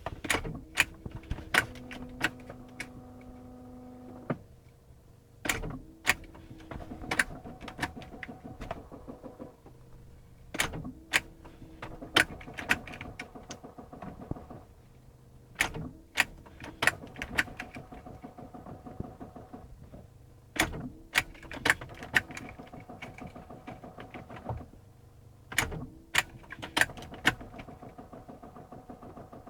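A BMW failing to start, tried again about every five seconds: each try is a cluster of sharp clicks followed by a few seconds of steady electric humming that cuts off, and the engine never catches.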